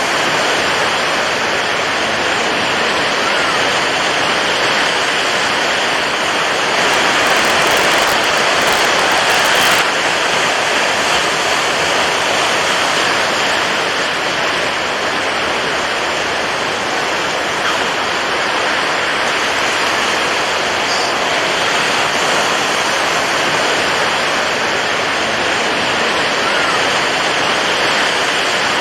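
Water waves rushing in a steady, even wash of noise, swelling a little about seven to ten seconds in.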